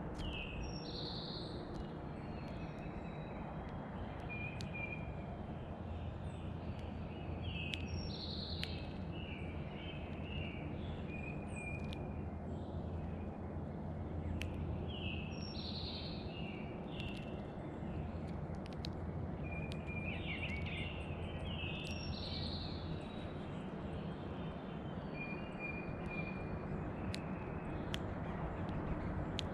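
White-throated sparrow singing, a phrase of clear whistled notes repeated about every seven seconds, over a steady low background rumble with scattered sharp clicks.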